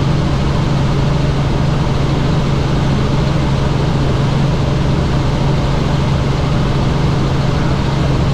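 Helicopter in flight: steady rotor and engine noise with a strong low hum, unchanging throughout.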